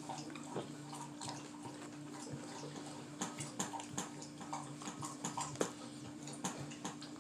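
Dog lapping water from a bowl: a run of short, irregular wet clicks and splashes.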